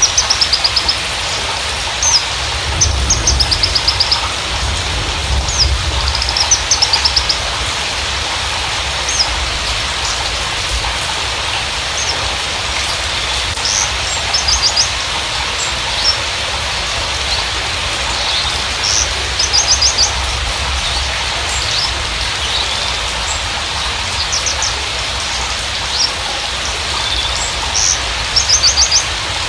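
Javan bushlark (Mirafra javanica parva) singing: short bursts of rapid, high repeated notes every few seconds, over a steady hiss.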